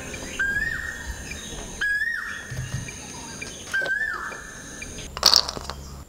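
A bird calling over and over, each call a short note that rises then falls, roughly every one and a half to two seconds. A brief loud clatter about five seconds in.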